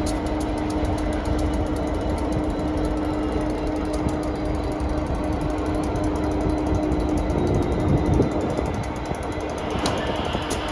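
Class 66 diesel freight locomotive idling, its two-stroke engine giving a steady hum with a fast, even clatter. Near the end a hiss begins to rise.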